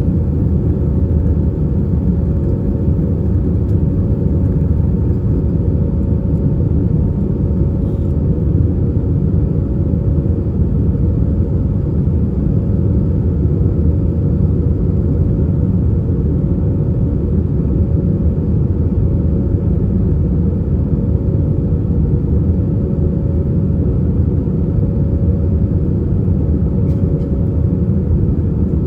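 Steady cabin noise inside an Airbus A320-232 climbing after take-off: a loud, even low rumble of airflow and its IAE V2500 engines, with a faint steady tone above it.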